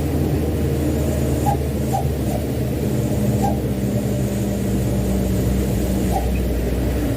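Mitsubishi Canter dump truck's diesel engine running steadily under a heavy load of wet sand, its note shifting slightly about three seconds in. A few faint short squeaks come through over it.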